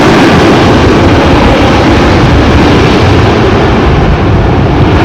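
Cargo jet's engines at high thrust, a loud, steady rumbling roar; the hiss on top fades away near the end as the aircraft draws off.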